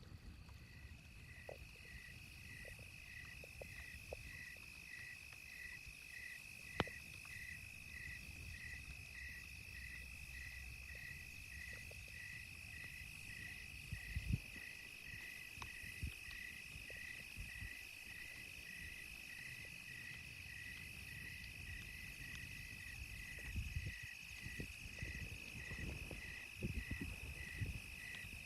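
Night insects: a steady high drone with a second insect chirping in regular pulses about twice a second. Underneath is a low rumble with a few sharp pops from the campfire, the loudest about seven seconds in.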